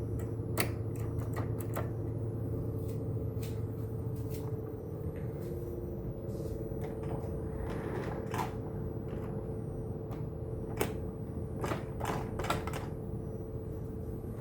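Model trains running on a layout: a steady electric motor hum, with sharp clicks scattered throughout, thickest near the middle and toward the end.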